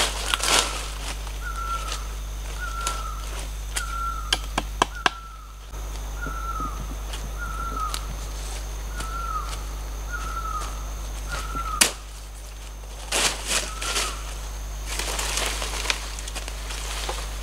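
A bird repeating a short, falling call about once a second, stopping about 14 seconds in. Over it come scattered footsteps and rustling in dry leaf litter, heaviest near the end, and one sharp click about 12 seconds in.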